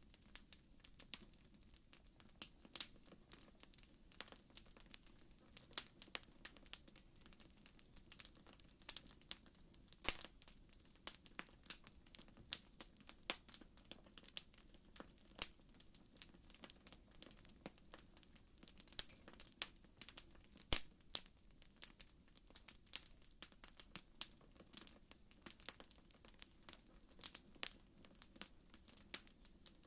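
Wood fire crackling: a quiet low rumble of burning with frequent irregular sharp pops and snaps, several a second.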